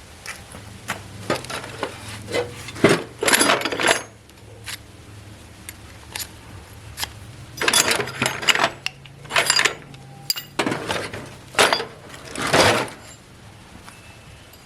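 Metal parts of an old sewing machine clinking and scraping as they are handled, in a series of short, irregular bursts.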